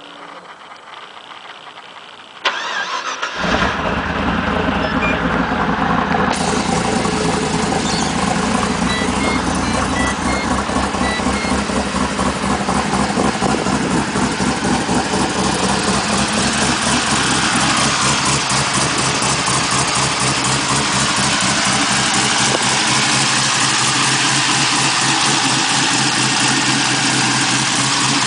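Twin-turbo LS1 5.7-litre V8 in a ute cranked and started about two and a half seconds in, then idling steadily with an even pulsing beat.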